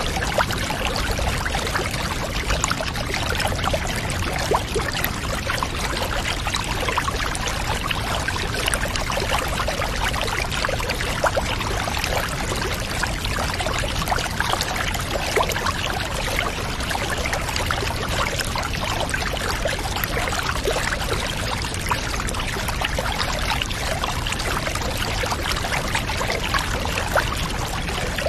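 Steady pouring and trickling water, a constant rush dotted with many small splashes.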